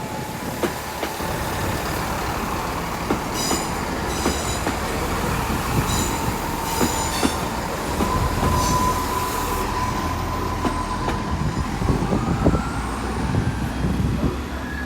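GWR Class 166 Turbo diesel multiple units moving through the station: a low diesel rumble and a steady whine, wheels clicking over the rail joints, with short high wheel squeals a few seconds in and again around the middle.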